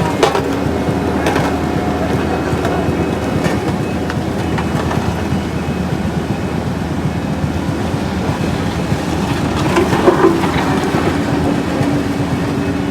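Heavy vehicle engine running steadily with a low rumble, with a few clunks, the loudest about ten seconds in.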